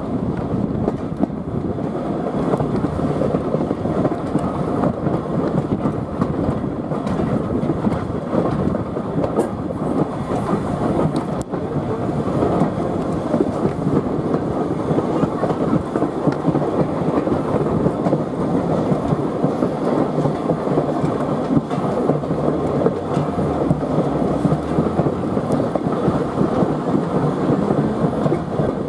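Steam train hauled by LMS Ivatt tank engine 41298 running along the line, heard from on board: a steady, even rumble of wheels on the rails.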